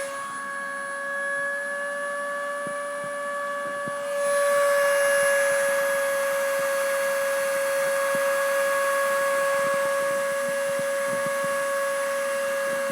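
Dremel rotary tool spindle on a homemade CNC router spinning with a steady high whine. About four seconds in it gets louder, with a hiss added as the bit routes into the circuit board, and faint ticks sound under it.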